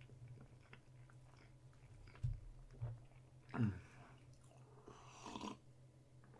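Quiet chewing of a peanut butter and jelly sandwich, with a few soft, short knocks and mouth sounds as he drinks from a cup in the second half.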